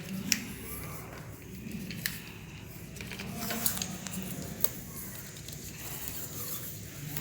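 Electrical insulating tape being pulled off the roll and wrapped around wire joints, with quiet crinkling and rubbing and a few sharp clicks.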